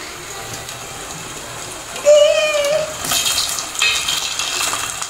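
Potato chips frying in hot oil in a pot, a steady sizzle that grows louder and brighter about three seconds in. This is the first of two fries. A child's short high-pitched call sounds about two seconds in.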